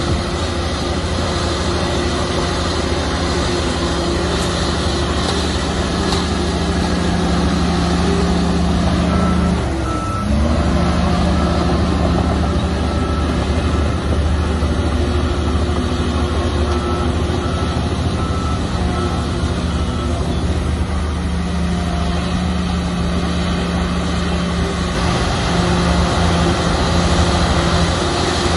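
Heavy diesel engine of an old Komatsu bulldozer running hard under load, its pitch dipping briefly about ten seconds in. A reversing alarm beeps faintly through the middle of the stretch.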